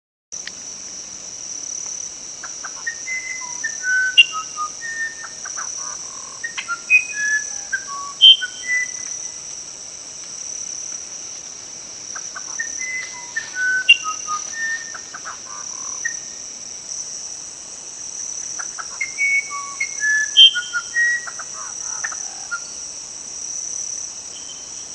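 Steady high-pitched insect chorus, with a songbird singing a phrase of short whistled notes of varying pitch three times, about every eight seconds.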